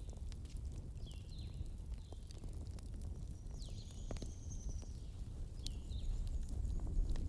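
Wood fire crackling: irregular sharp pops and snaps over a steady low rumble. Several short, high squeaky chirps dip in pitch at intervals through it.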